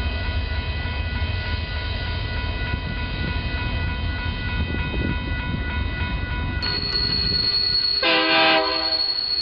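Union Pacific diesel locomotives rumbling past at the head of a double-stack container train, with several steady whining tones over the rumble. After a cut, a yard switcher leading a local around a curve gives one short horn blast of a few notes about eight seconds in, over a steady high wheel squeal.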